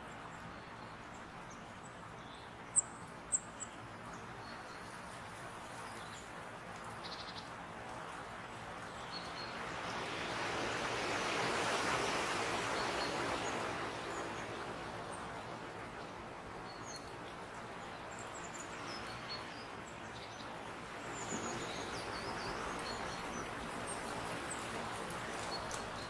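Small woodland birds chirping now and then, with a few sharp high chirps a few seconds in. Under them is a soft rushing noise that swells twice, most strongly around the middle.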